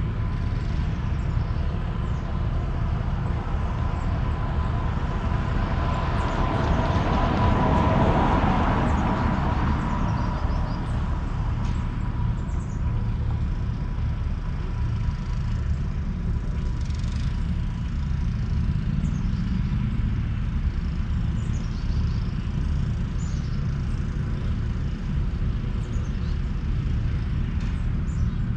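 Outdoor ambience: a steady low rumble, with a passing sound that swells and fades about eight seconds in.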